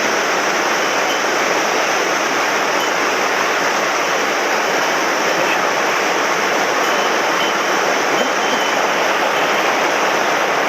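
Swollen mountain stream rushing steadily: water running high after heavy rain.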